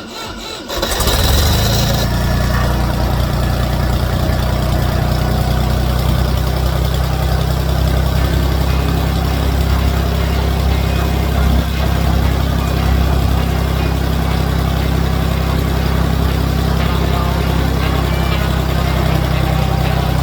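Old Ford farm tractor engine starting cold, without its block heater: it catches about a second in and settles into a steady idle.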